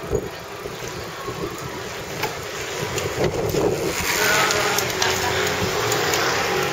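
Riding noise on a mountain bike: wind rushing over the microphone with tyre and rattle noise, getting louder from about four seconds in.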